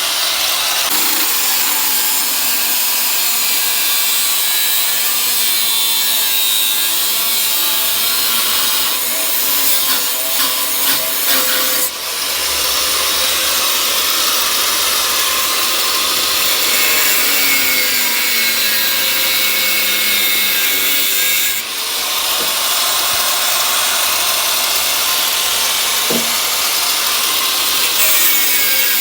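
Angle grinder cutting through old galvanized iron water pipe, running steadily, with two brief breaks about twelve seconds in and again about twenty-two seconds in.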